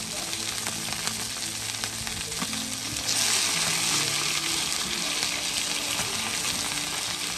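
Pot-sticker dumplings frying in oil on a wide flat iron pan: a steady sizzle that gets louder about three seconds in, with light scrapes of a metal spatula lifting the dumplings out.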